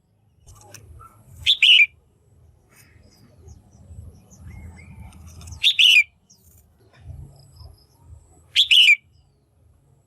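Female red-whiskered bulbul calling: three short, loud calls a few seconds apart, each a quick pair of chattering notes, over a faint low hum. The loud, clear calls are of the kind played to excite male bulbuls or to lure one in.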